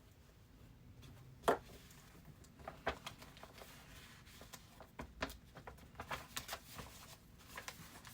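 Faint scattered clicks and rustling; the sharpest click comes about a second and a half in, and a cluster of smaller ones about five to six and a half seconds in.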